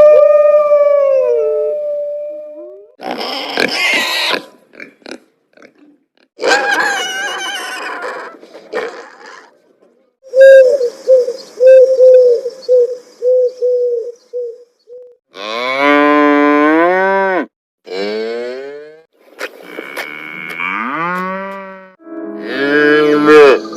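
A sequence of different farm animals calling one after another, each call lasting a second or a few seconds with short pauses between. One of them, from about ten seconds in, is a run of quick, short repeated notes; several others are long calls that rise in pitch.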